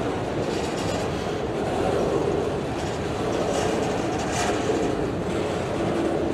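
A train's cars rolling past on the rails: steady wheel-on-rail rumble with occasional clicks.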